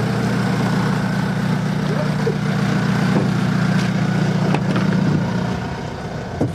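Jeep JK Wrangler's engine running with a steady low drone, heard from inside the cabin, easing off near the end.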